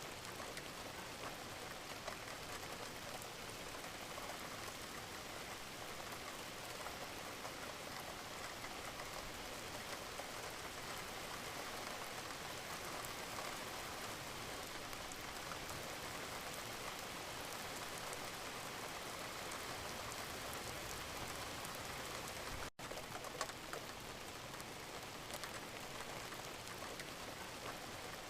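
Gentle rain falling steadily, an even hiss with scattered individual drop ticks; it cuts out for an instant about 23 seconds in.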